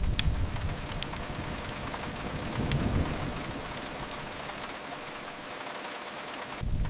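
Steady rain hissing against a window, with a brief low rumble swelling about three seconds in.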